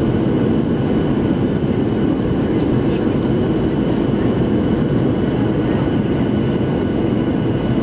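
Airliner cabin noise during the landing: a steady, even rumble of engines and airflow, with a faint steady high whine.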